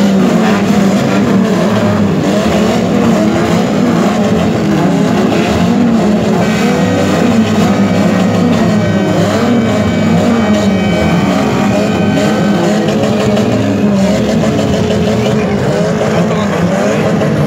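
Several car engines revving up and down continuously and loudly, with a steady high tone held through the middle.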